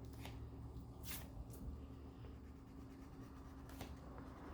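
Faint scratching of a crayon on paper: a few short coloring strokes, over a low steady hum.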